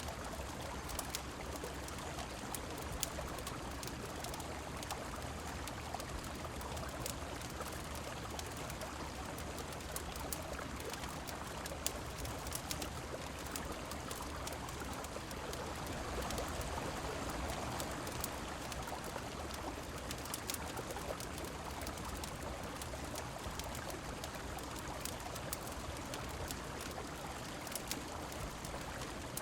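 Steady rush of a river mixed with falling rain, with scattered sharp crackles of a wood fire. The water swells slightly a little past the middle.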